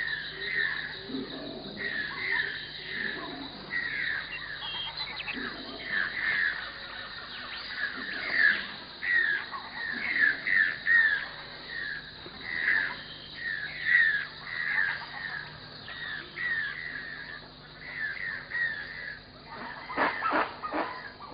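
Birds calling over and over, short downward-sliding calls coming a few times a second, with a brief cluster of clicks near the end.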